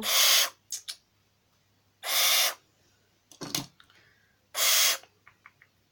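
Barn owl hissing three times, each a short harsh hiss, about two seconds apart: the sound of a grumpy bird.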